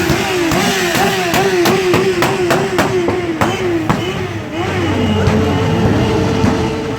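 Motorcycle engines being revved in quick repeated throttle blips, the pitch rising and falling about three times a second, with sharp popping cracks through the first half. From about five seconds in, one engine holds a steady pitch while another winds down.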